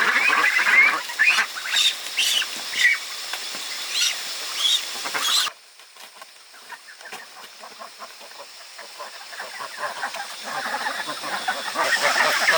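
Farm fowl calling, a run of short calls over busy background sound, which cuts off suddenly about halfway through to a much quieter background that swells again near the end.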